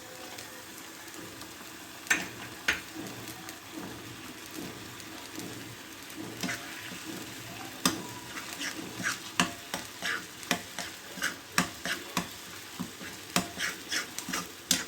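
Peanut paste and onion-garlic masala sizzling in hot oil in a pan while being stirred. The stirring utensil clicks and scrapes against the pan, and the strokes come faster in the second half.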